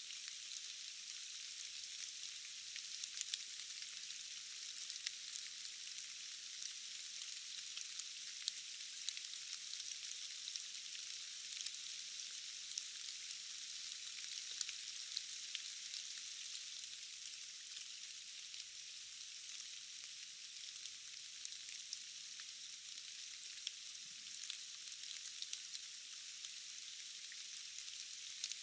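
Steady rain falling, an even hiss dotted throughout with the small ticks of individual drops. The sound is thin, with no low rumble at all.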